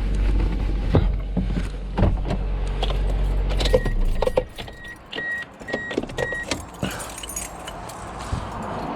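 Car engine idling, then switched off about four seconds in, followed by a run of short, evenly pitched warning beeps from the car, with keys jangling and small clicks of handling.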